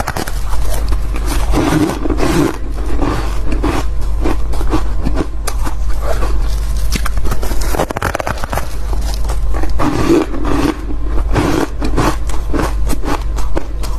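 Close-miked biting and chewing of soft, fluffy ice: dense, squeaky crunching made of many sharp crackles, over a steady low hum.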